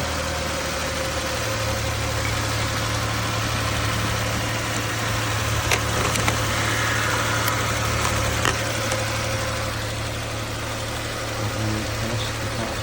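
Vehicle engine idling steadily, just after being jump-started from a completely dead battery; its idle note steps up slightly about a second and a half in.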